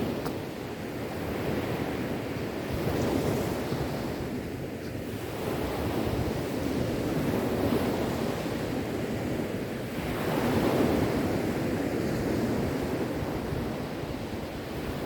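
Sea waves washing onto the shore, a steady rush of surf that swells and eases every few seconds.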